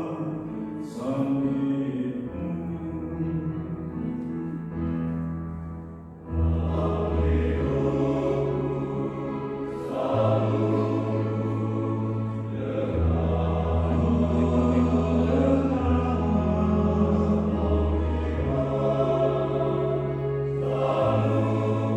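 Church choir singing a sacred song in sustained chords over long held low notes, with a short break between phrases about six seconds in.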